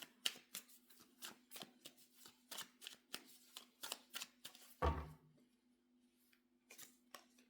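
Tarot cards being shuffled by hand: quick crisp card flicks about three a second, then a thump about five seconds in, with only a few flicks near the end.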